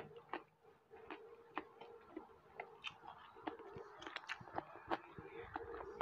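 Close-miked chewing through a clip-on microphone: irregular mouth clicks and smacks of someone eating, over a faint steady hum.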